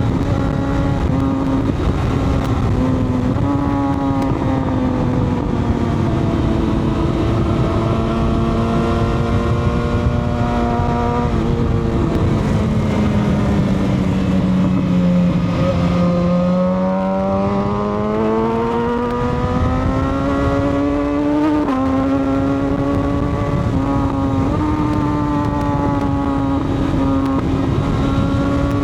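Motorcycle engine under way, its pitch sinking slowly and then climbing over several seconds as the throttle changes, with a few abrupt jumps in pitch, over a steady rush of wind.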